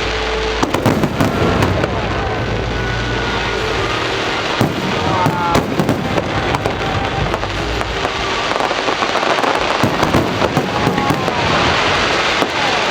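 Aerial fireworks going off in quick succession, with many sharp bangs and crackling.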